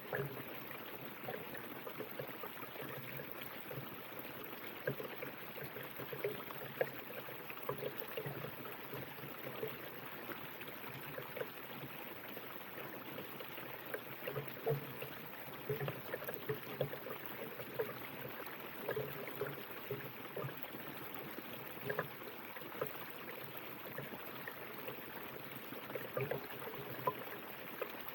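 River water flowing and gurgling steadily over stones, with small irregular splashes and bubbling.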